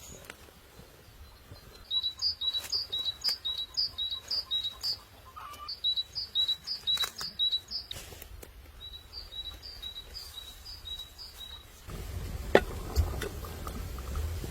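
A bird chirping in three quick runs of short, high, repeated notes, about three a second. Near the end, low wind rumble on the microphone sets in, with a single knock.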